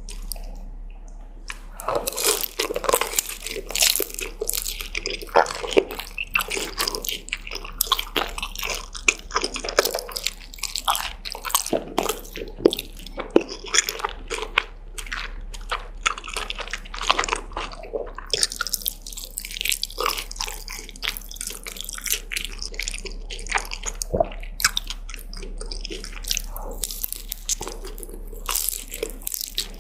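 A person eating close to the microphone: continuous chewing and biting with many short, crisp crunches, starting about a second and a half in.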